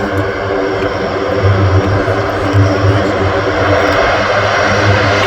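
Four turboprop engines of a C-130 Hercules running, a steady loud propeller drone with a low hum that swells and fades about once a second.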